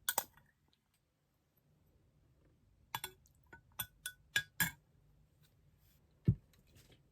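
Small hard objects being handled on a surface: a sharp clink at the start, a quick run of about six light clinks and taps around the middle, then one dull knock near the end.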